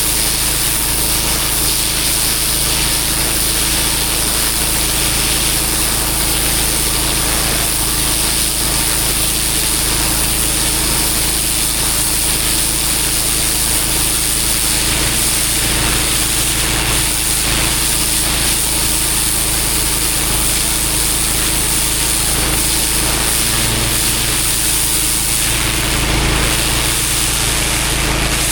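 Pressure washer's engine running steadily under the continuous hiss of a high-pressure water jet spraying block paving.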